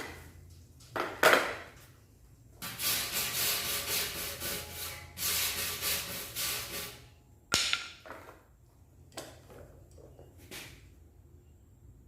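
Rapid rubbing or scraping strokes on the metal fuel tank for about four seconds, framed by a sharp knock before and a click and a few light taps after.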